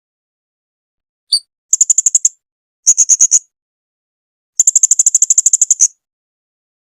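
Blue-crowned hanging parrot (serindit) singing. A single short call is followed by three rapid, very high-pitched chirping trills, each a quick string of sharp notes at about a dozen a second. The last trill is the longest.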